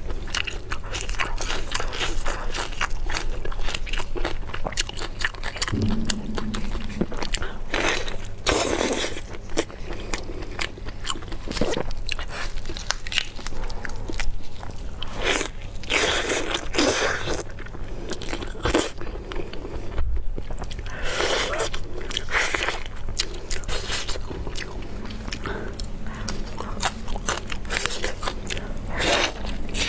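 Close-miked eating: repeated crunching bites and chewing, dense with sharp crackly clicks.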